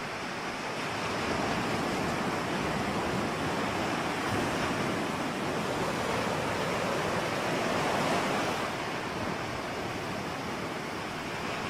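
Ocean waves washing onto a shore: a steady rushing surf that swells about a second in, peaks around eight seconds, then eases off.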